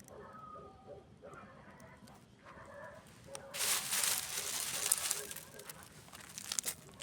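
Campfire burning with sharp crackles and pops. About halfway through it swells into a louder, dense rush of crackling and hissing for a couple of seconds, as the dry fuel flares, then settles back.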